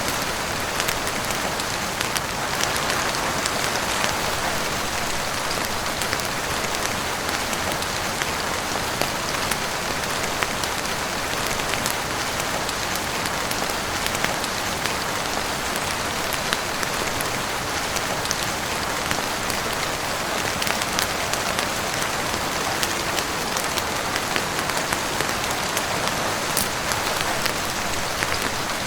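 Heavy rain falling steadily on a roof and windows: a constant, even hiss dotted with scattered sharp ticks.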